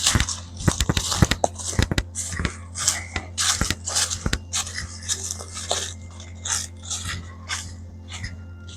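Footsteps crunching through dry fallen leaves, about two steps a second.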